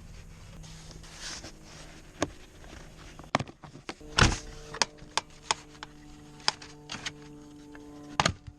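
A string of irregular sharp clicks and knocks, with a steady low hum under them at first. Background music comes in about four seconds in.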